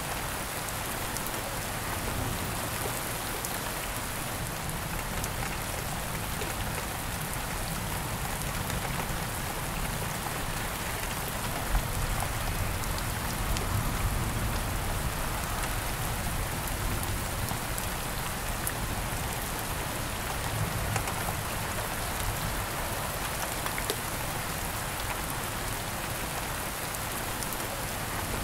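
Steady rain falling: a dense hiss with individual drops ticking through it. One sharp drop hit sounds just before the middle, followed by a low rumble that swells for a few seconds.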